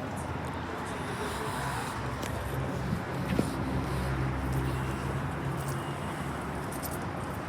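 Steady background noise with an engine droning low for a few seconds in the middle, swelling and then fading away, like a vehicle passing.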